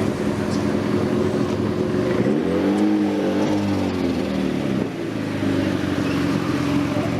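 Car engines idling, with one engine revved about two seconds in: its pitch climbs and then drops back over about two and a half seconds.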